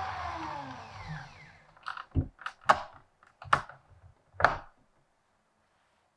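A small electric motor spinning down, its whine falling in pitch and fading, followed by a quick series of sharp clicks and knocks, then silence.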